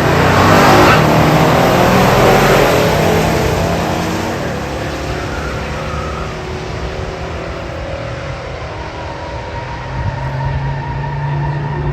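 Muscle-era drag cars at full throttle racing down the strip, loudest at the start and fading as they pull away, with the engine sound picking up again about ten seconds in.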